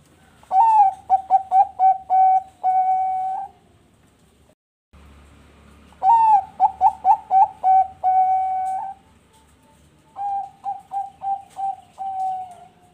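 Zebra dove (Thai-bred perkutut bangkok) cooing: three song phrases, each a quick run of short staccato coos that ends in one long held note. The third phrase is fainter than the first two.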